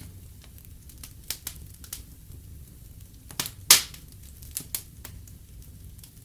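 Fire in a fireplace crackling: scattered sharp pops over a low steady rumble, the loudest pop a little past halfway.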